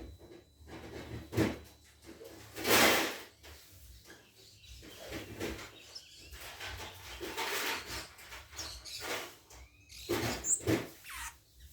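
Birds moving and calling: a series of short rustling, flapping bursts, the loudest about three seconds in, with a few faint high chirps near the end.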